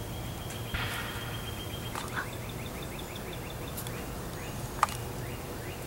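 Small birds singing in woodland, with a rapid, even trill of high notes and scattered rising chirps over a steady low hum. A single sharp tap comes just before the end.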